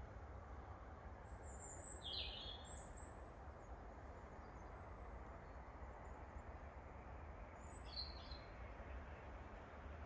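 Faint bird calls: a short cluster of high chirps about two seconds in and another near eight seconds, over a steady low background rumble.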